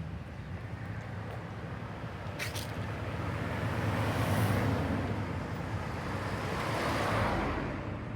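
Road traffic: a steady rumble with two vehicles passing, swelling about four and a half and seven seconds in.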